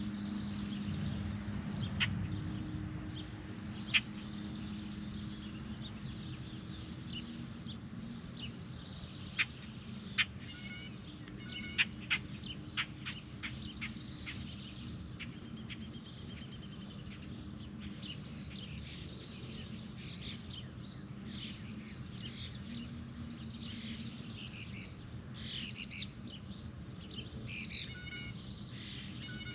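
Birds chirping and calling in short, sharp notes scattered through, with a run of quick high notes about halfway through and a cluster of louder calls near the end, over a low steady hum.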